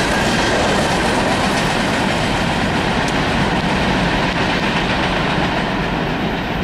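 Freight train's hopper cars rolling past on steel wheels, a steady rumble with rail clatter; the last car clears partway through and the rumble eases off slightly as the train moves away.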